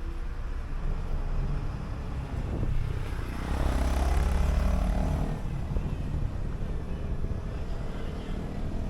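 City bus on the move: a steady low engine and road rumble that swells louder for a couple of seconds midway, then settles back.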